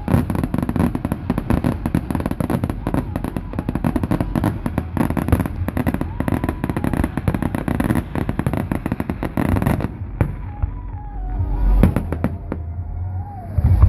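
Fireworks display: dense, rapid crackling for about ten seconds, then the crackling stops and a few deep booms follow.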